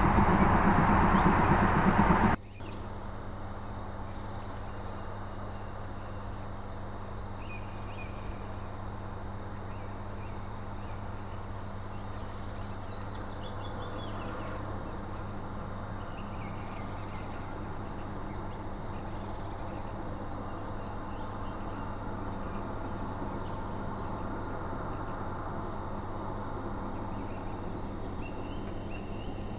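Small birds singing repeated short, chirping phrases over a steady low hum and a faint rumble that grows slowly louder as a distant steam train approaches. A louder sound cuts off abruptly about two seconds in.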